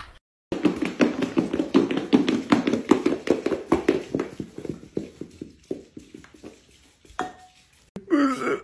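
A small dog's paws and claws clattering on a hardwood floor as it trots and gallops: a rapid clip-clop patter like little hooves, fading out about six seconds in. A short whine follows near the end.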